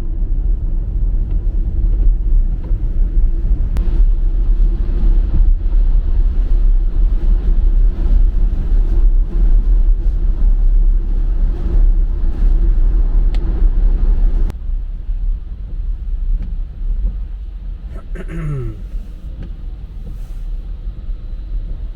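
Steady low tyre and road rumble inside the cabin of a Tesla Model Y driving on the highway. It gets quieter about two-thirds of the way through, and a short falling tone sounds near the end.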